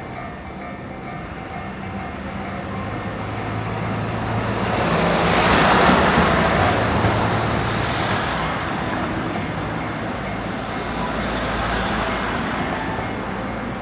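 Electric train running past on the rails: a steady rolling noise of wheels on track that swells to its loudest about six seconds in, then slowly fades.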